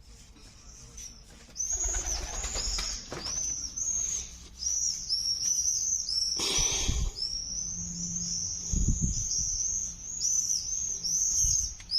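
Small songbird chirping rapidly and continuously, a run of short high chirps that starts about a second and a half in. Several dull knocks and rustles of handling come through it along the way.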